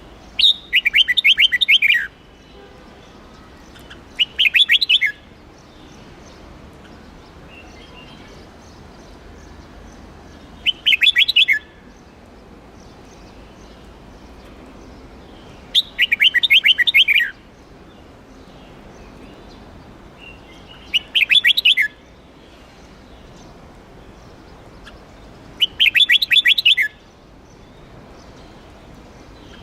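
Red-whiskered bulbul singing: six short, rapid, warbling phrases spaced several seconds apart.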